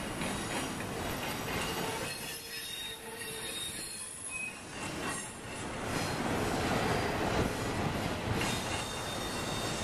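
Double-stack container train's freight cars rolling past on a curve, a steady rumble of steel wheels on rail with thin, high wheel squeal over it. It grows louder about six seconds in.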